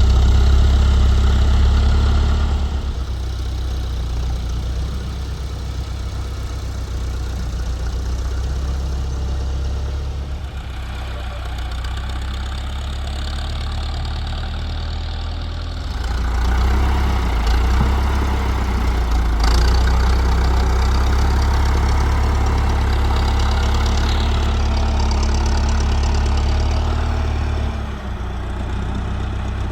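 Tractor engine running steadily, its loudness changing with the work: louder for the first couple of seconds, quieter from about three seconds in until midway, then louder again until shortly before the end.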